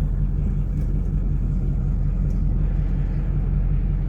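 A vehicle engine running at a steady, even speed with a deep, constant rumble.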